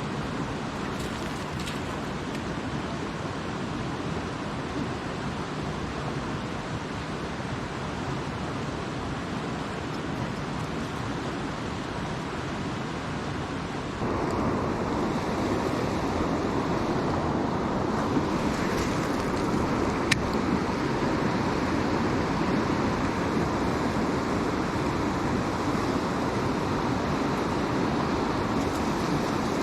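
Mountain creek water rushing, a steady noise that suddenly becomes louder about halfway through, with one sharp click a few seconds later.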